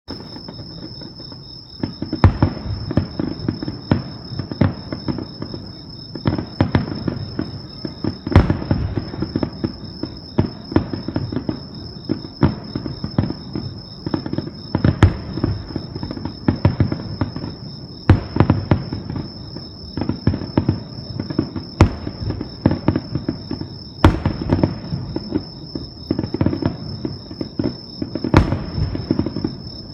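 Fireworks display: a dense, continuous run of booms and crackling bursts, with a sharper, louder bang every few seconds. A steady high-pitched tone runs underneath.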